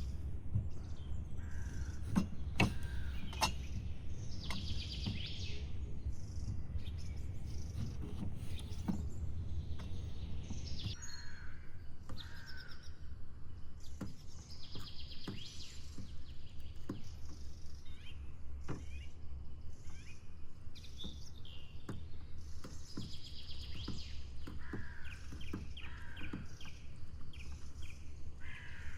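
Forest birds singing and chirping in repeated short phrases, over a steady low rumble, with scattered sharp clicks throughout.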